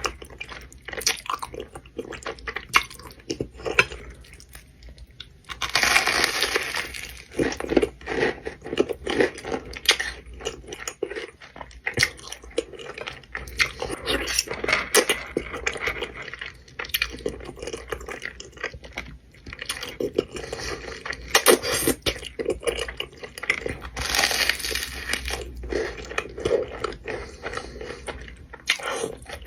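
Close-miked eating sounds of cheesy food: bites, crunching and chewing in irregular bursts, with loud crunchy bites about six seconds in and again near the end.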